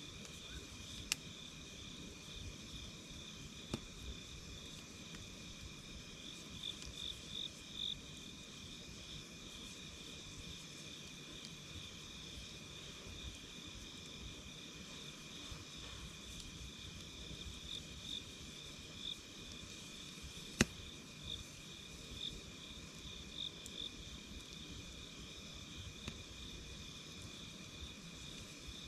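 Night insects trilling steadily in a high, pulsing chorus, with a few sharp pops and crackles from a wood campfire; the loudest pop comes about two-thirds of the way through.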